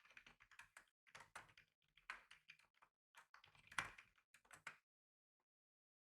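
Typing on a computer keyboard: runs of quick key clicks with short pauses, one stroke louder than the rest near the end, then the typing stops.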